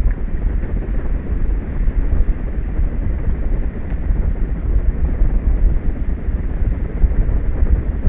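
Wind buffeting an outdoor microphone: a steady, gusting low rumble and rush with no distinct events.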